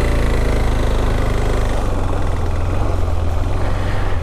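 KTM 390 Adventure motorcycle's single-cylinder engine running, its low note shifting about two seconds in.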